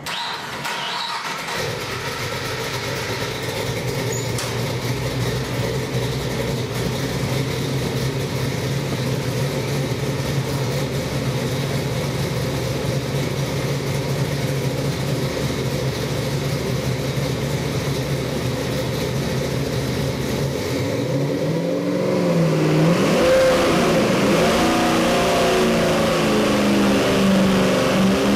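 Ford 408 cubic-inch stroker Windsor V8 (built on the 351W block) running on an engine dyno. It holds a steady speed for about twenty seconds, then is revved, its pitch swooping up and down and a little louder.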